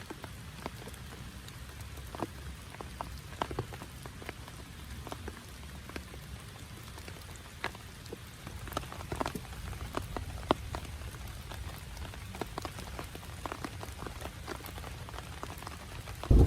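Rain drops ticking irregularly on a tent, over a steady low rumble of rain. A much louder rush starts suddenly at the very end.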